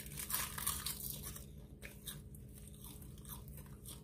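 Crisp roasted seaweed (laver) sheets crunching as they are bitten and chewed: a dense crackle for about the first second and a half, then scattered smaller crunches of chewing.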